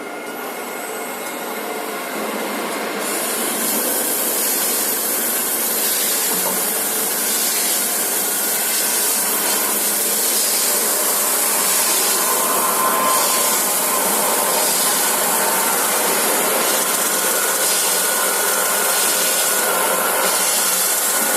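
Steady machine noise of an H-beam CNC drilling line running, with a loud hiss coming in about three seconds in.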